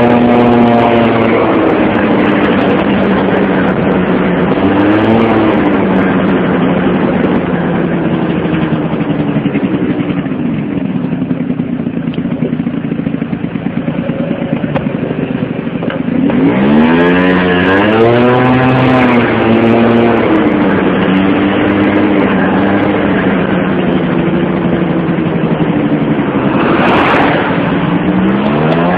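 Motorcycle engine running on the move: its pitch climbs as it accelerates at the start, again about halfway through and right at the end, and eases back and holds steady in between. A short hiss cuts in briefly near the end.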